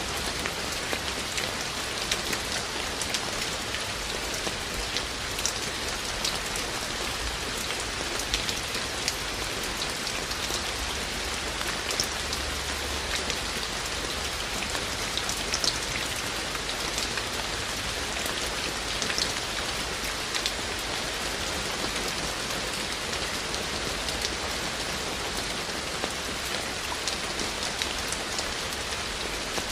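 Steady rain falling, with many sharper individual drips ticking out irregularly over the even hiss.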